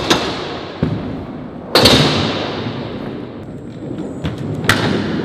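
Three sharp thumps, a little under two seconds apart, each ringing out in a long echo, as a heavy Bird electric scooter bangs onto the ramps.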